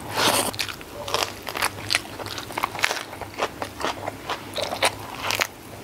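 Close-miked eating by mouth: wet chewing and a run of sharp, crisp crunches as a handful of rice with sambal and then a raw lettuce leaf are bitten and chewed.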